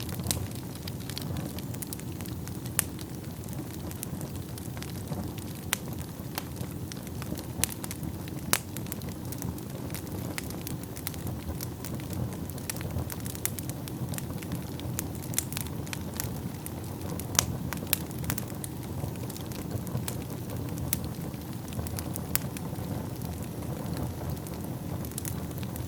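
Wood fire burning in a fireplace: a steady low rush of flame with irregular sharp crackles and pops from the burning logs, a few a second.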